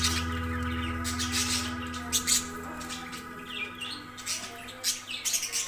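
Budgerigars chirping in quick bursts, more often in the second half, over background music that fades out over the first few seconds.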